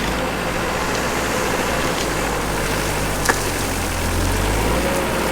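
Diesel engine of a piece of heavy equipment running steadily, its low rumble swelling briefly near the end as it takes load, with a single sharp knock about three seconds in.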